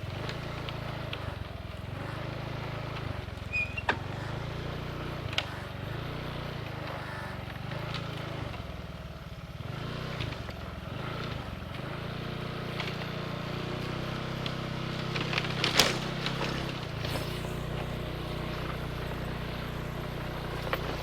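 A vehicle engine running steadily at low revs, with a few sharp knocks and clicks over it, the loudest about three-quarters of the way through.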